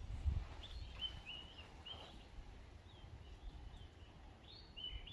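Birds chirping: a run of short, high chirps that bend up and down, with a few pauses, over a low rumble.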